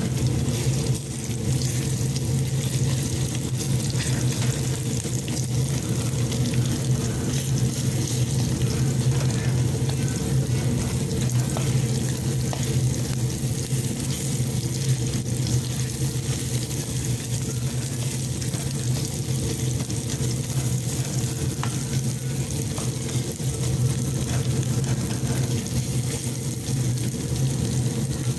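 Chopped onion and paste frying in hot oil in a non-stick wok, sizzling steadily, with light scrapes of a plastic spatula stirring. A steady low hum runs underneath.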